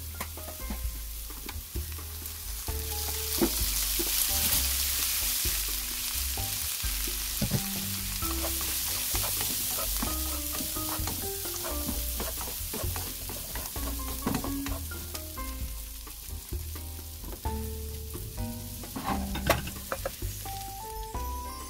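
Chicken gizzards sizzling in an oiled wok as they are stir-fried, a spatula scraping and knocking against the pan. The sizzle is strongest a few seconds in and eases off in the second half, when the pieces are pushed out of the wok.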